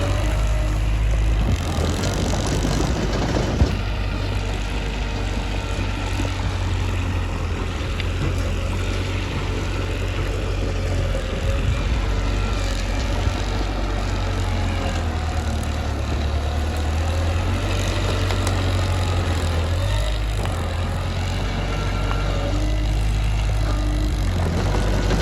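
Mitsubishi bulldozer's diesel engine running steadily, its low note shifting as the load changes, with one sharp knock about three and a half seconds in.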